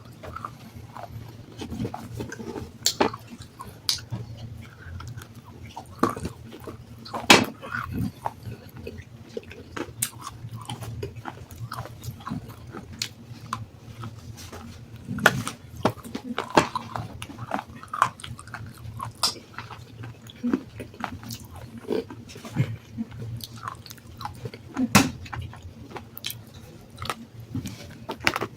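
Close-miked biting and chewing of water-soaked black sandstone, with crisp, irregular crunches over a steady low hum. The sharpest crunches come about 7, 15 and 25 seconds in.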